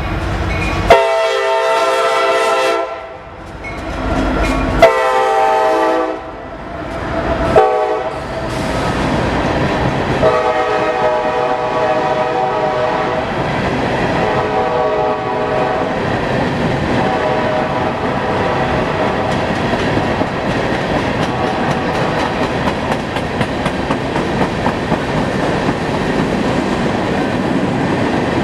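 Locomotive horn sounding the grade-crossing pattern, two long blasts, a short one and a long one, its chord of several tones clearly audible. Then the train's wheels rumble past on the rails with rapid clicking over the joints.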